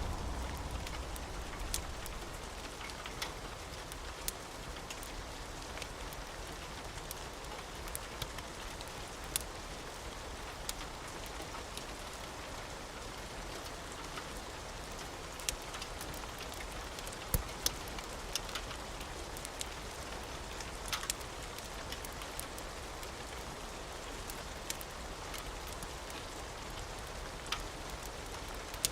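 Steady rain falling, an even hiss, with scattered sharp pops and clicks from a crackling wood fire; the low tail of a thunder rumble dies away in the first second.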